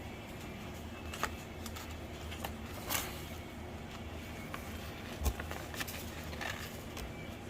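A few light clicks and rustles of a small inline exhaust fan and its packaging being handled and turned over, over a low steady background hum.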